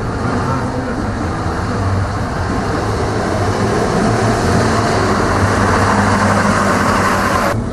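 A motor vehicle engine running, with a steady low hum and a rush of noise that builds over several seconds and then cuts off suddenly near the end.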